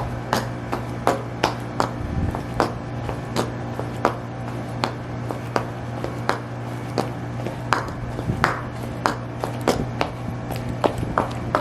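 High heels stomping on a hard surface: a steady run of sharp heel clicks, about two to three a second, over a constant low hum.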